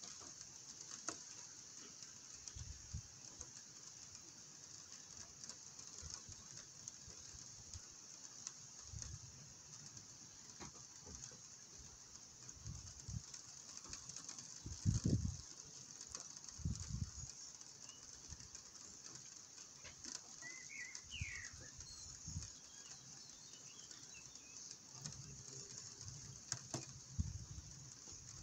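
Rain ambience: a steady hiss of light rain with scattered low, soft thumps. A few faint bird chirps come about two-thirds of the way in.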